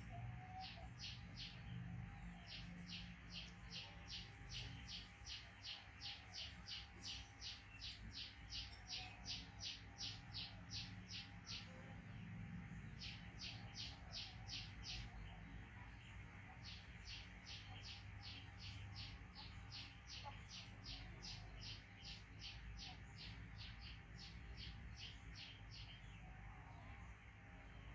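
A small bird chirping, short high chirps at an even pace of about three a second, in long runs broken by a few short pauses.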